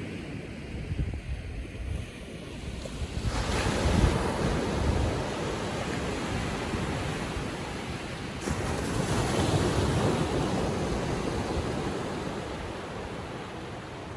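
Small ocean waves breaking and washing up on a beach on a calm sea. Two waves swell and fade, one about three seconds in and another just past eight seconds.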